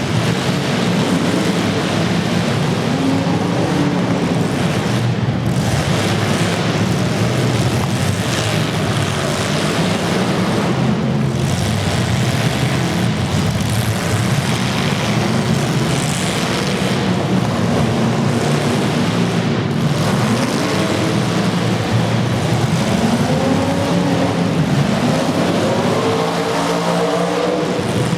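Demolition derby car engines running loud and steady, several at once. In the last several seconds they rev up and down repeatedly, with the pitch rising and falling.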